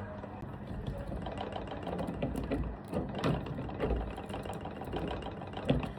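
Light metallic clicks, taps and rattles of a wire wheel being handled and turned against an angle grinder's spindle as it is fitted by hand. The grinder is not running.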